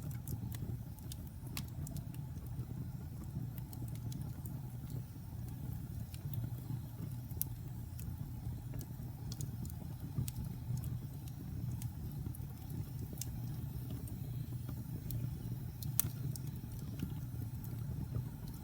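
Fire burning in a fireplace: a steady low rumble with scattered sharp crackles and pops, one louder pop near the end.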